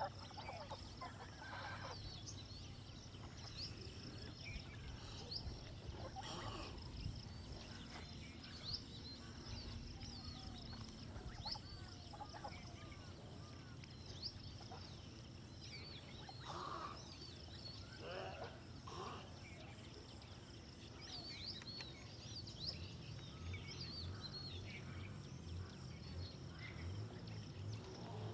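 Outdoor bird chorus: many small birds chirping in short, quick high notes over a low steady hum. There are a few louder, lower calls, most of them between about 16 and 19 seconds in, that sound like domestic fowl.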